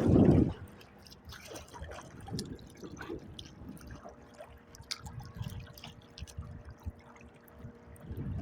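Water splashing and dripping around a kayak: one loud splash at the start, then small irregular splashes and drips. A faint steady hum comes in about halfway through.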